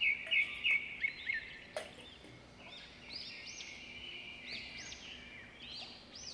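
Small birds chirping over and over in short trills. There is one sharp click a little under two seconds in.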